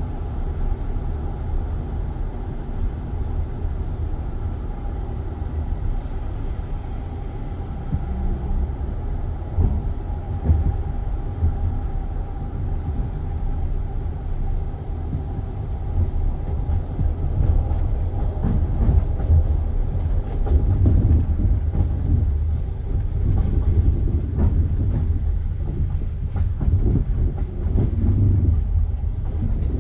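Passenger train heard from inside a carriage: a steady low rumble of the wheels on the rails, with a faint steady tone in the first half and irregular knocks and clicks from about halfway on.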